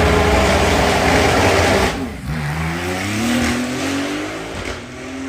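A supercar accelerating hard at full throttle. About two seconds in, the engine note drops for an upshift, then climbs steadily again and grows fainter as the car pulls away.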